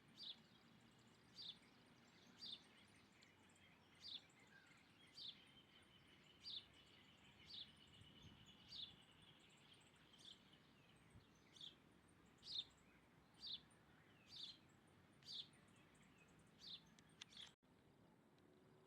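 A bird repeating a short, high chirp about once a second, each call dropping slightly in pitch, over faint outdoor hiss. The background cuts out abruptly near the end.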